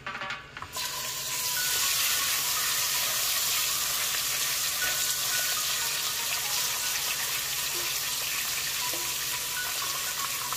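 Food sizzling as it fries in hot oil in a pan: a steady hiss with small crackles, starting about a second in.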